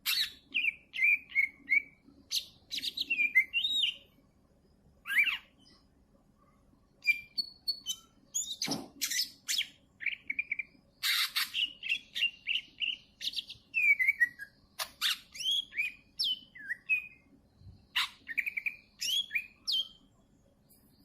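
Greater green leafbird (cucak ijo) singing: a varied run of whistled phrases with sliding notes and quick chattering trills, in bursts broken by short pauses, with a longer silence about four seconds in.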